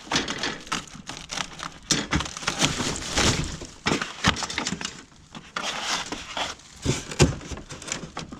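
Crackling, rustling and scattered knocks of packaging and parts being handled and sorted, in an irregular run of sharp crackles with no steady machine sound.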